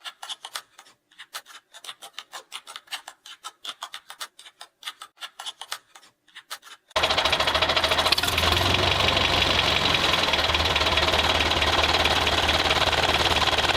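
Quiet rapid clicking, then a small motor-driven machine starts abruptly about seven seconds in and runs steadily and loudly with a whirring hum. This is most likely the DIY mini tractor's motor running.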